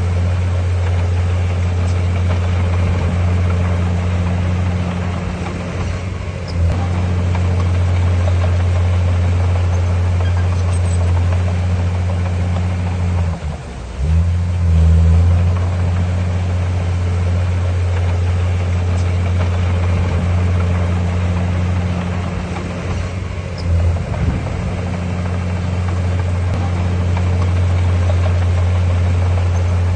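Bulldozer's heavy diesel engine running steadily under load, its note dipping and picking back up briefly three times.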